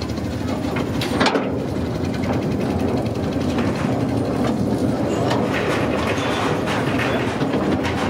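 A train running: a steady rumble with clicks, one sharp click about a second in.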